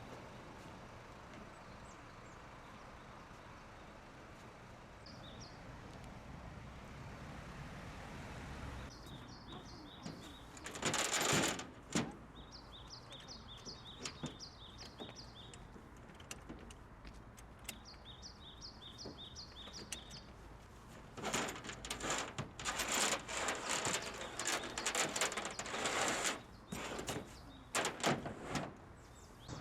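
A small bird chirping in quick runs of short, repeated high notes. Loud bursts of rattling clatter come in about a third of the way in and again through much of the last third.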